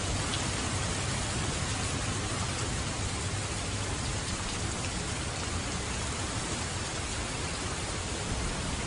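Steady rain falling, an even hiss without pause. A low rumble of thunder dies away in the first second or so.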